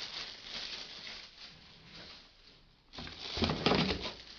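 Plastic packaging rustling and crinkling as a vacuum cleaner's floor nozzle is unwrapped, dying down, then a louder burst of handling about three seconds in.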